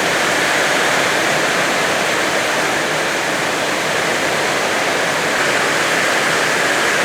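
Heavy rain pouring down steadily in a windstorm, a dense even hiss of water.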